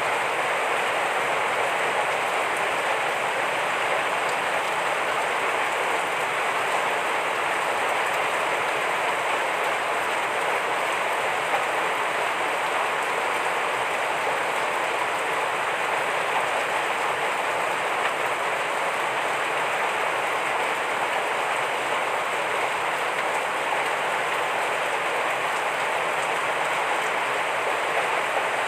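Heavy rain falling steadily, an even hiss of dense rainfall with no breaks.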